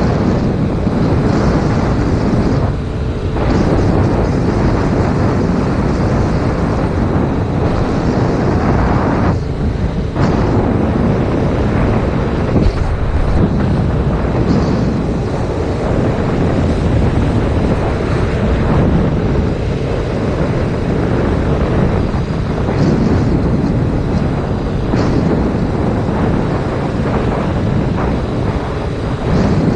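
Heavy wind buffeting on the action camera's microphone while riding a 2019 Yamaha MT-07 motorcycle, with its 689 cc parallel-twin engine running underneath. The noise dips briefly a few seconds in and again about ten seconds in.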